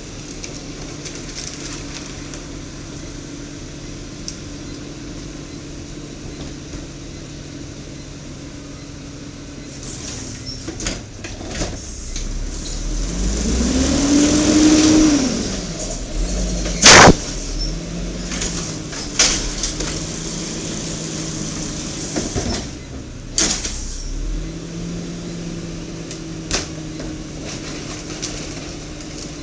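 Natural-gas garbage truck with an automated side-loading arm idling steadily, then revving up and back down to drive the arm's hydraulics. A single loud bang follows just past the middle, with a few lighter knocks and clanks after it as the engine settles back to idle.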